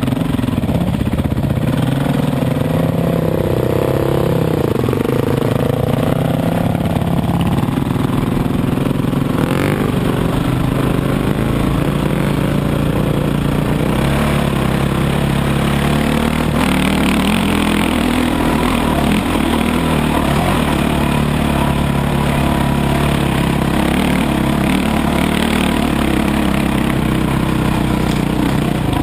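Dirt bike engine running while riding, its revs rising and falling with the throttle.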